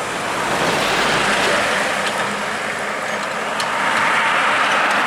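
Road traffic passing close by: a steady rush of tyre and engine noise that swells about a second in and again near the end as vehicles go past.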